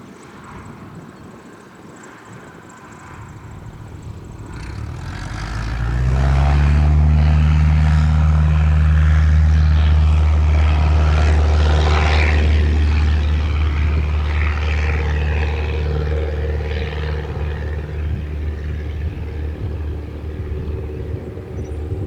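Cessna 172M's four-cylinder Lycoming engine and propeller droning steadily, growing loud about five seconds in and then slowly fading.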